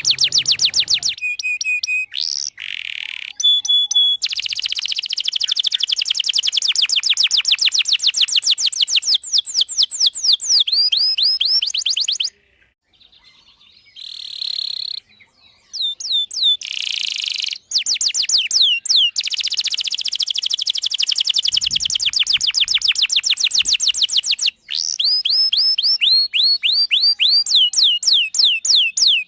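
Domestic canary singing a long song of fast trills: rapid runs of repeated chirping notes, each phrase a different tempo and pitch, broken by a few brief pauses.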